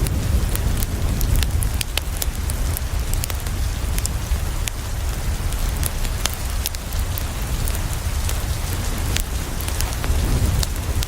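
Steady heavy rain falling on a window, with scattered sharp clicks throughout. Underneath runs a low rumble of dying thunder, strongest at the start.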